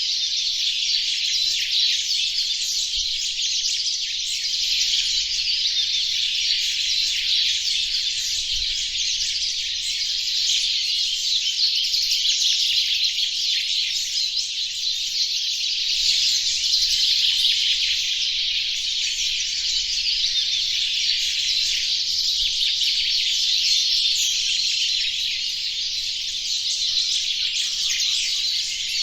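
Birdsong recording layered 64 times over itself, so the chirps merge into a dense, steady wall of high twittering with no single song standing out.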